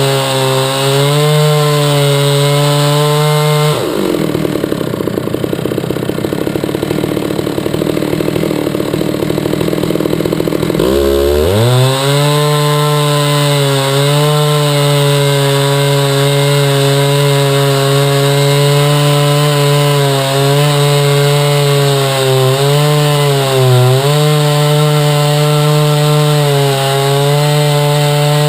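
Two-stroke chainsaw running at high revs in a chainsaw mill, ripping a hard maple log into slabs. About four seconds in its pitch drops lower for around seven seconds, then climbs back up and holds steady with small dips.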